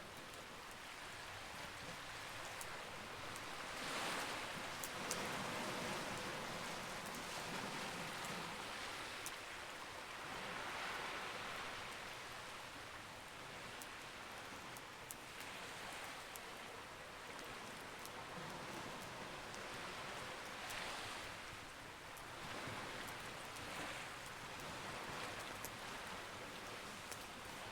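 Campfire crackling with scattered sharp pops, over sea waves washing in and out that swell and fade every few seconds.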